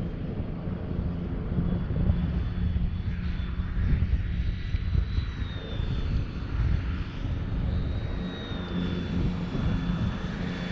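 Durafly Tundra RC model plane flying, its electric motor and propeller a thin high whine that wavers slightly in pitch, under a heavy, gusting rumble of wind on the microphone.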